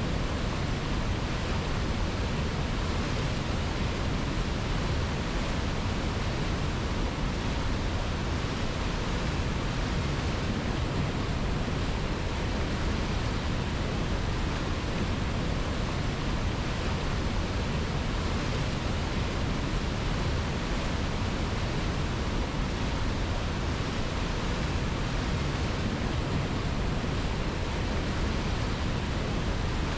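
Steady, even rushing of river water, a constant hiss and rumble that never changes.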